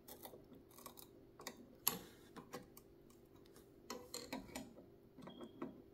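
Scattered light clicks and taps of small metal parts and a tool being handled on a vintage sewing machine, irregular, the sharpest tap about two seconds in, over a faint steady hum.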